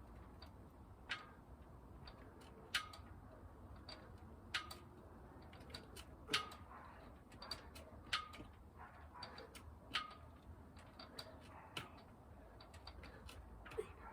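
A person doing repetitions of a bodyweight workout: a faint click with a brief squeak about every two seconds, eight times in all.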